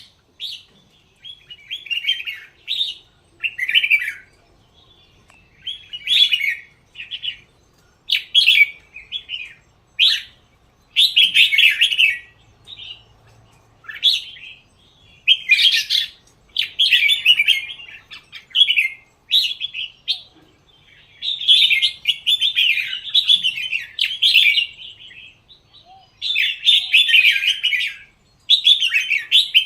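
Red-whiskered bulbul singing: short, bright warbling phrases repeated every second or two with brief pauses, running into longer, almost unbroken song in the second half.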